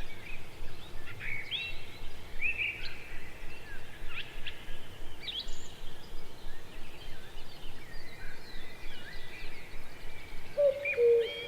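Wild birds chirping and calling, many short sweeping notes, over a steady outdoor background hiss; near the end a lower whistled note joins in.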